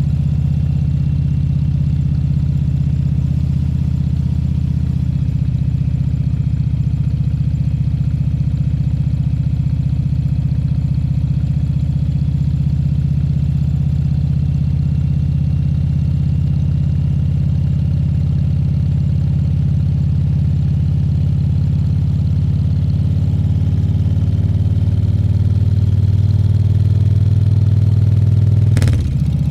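Harley-Davidson Fat Bob 114's Milwaukee-Eight 114 V-twin engine running steadily on the move. The engine note climbs slightly over the last few seconds, then drops abruptly near the end.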